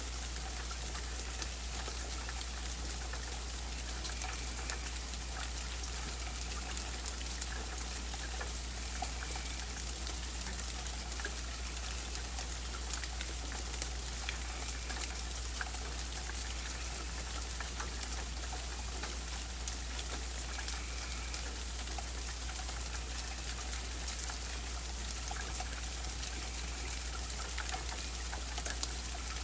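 Steady rain, with individual drops ticking and pattering on surfaces and a continuous low rumble underneath.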